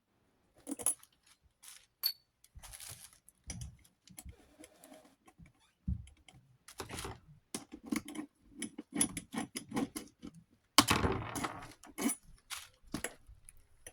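Small metal and plastic desk-fan parts being handled during disassembly: irregular clicks, clinks and rattles, with a louder, longer clatter about eleven seconds in.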